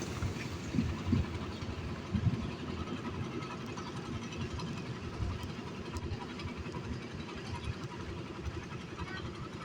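An engine running steadily with a low rumble, with a few thumps in the first couple of seconds.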